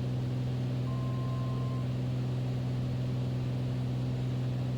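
Beechcraft Bonanza's piston engine and propeller droning steadily in the cockpit, with a brief faint high tone about a second in.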